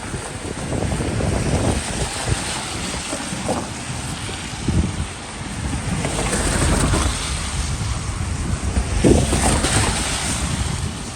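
Wind buffeting the microphone over a steady low rumble and the hiss of traffic on wet streets, with louder swells about six and nine seconds in as vehicles pass.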